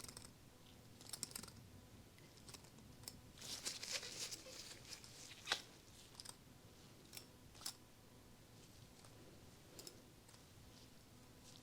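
Faint close-up handling sounds of nitrile-gloved hands and a jade roller worked over the face. Scattered soft clicks and crackles, with a denser rustling stretch about three to five seconds in.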